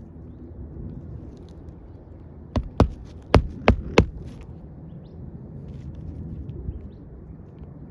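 Five sharp knocks in quick succession, starting about two and a half seconds in, from hand work on asphalt roof shingles, over a steady low rumble.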